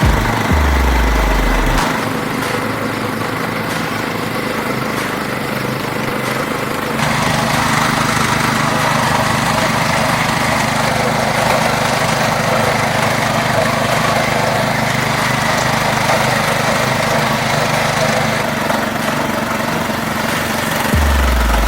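Walk-behind tractor (motoblok) engine running steadily while driving, growing louder about seven seconds in.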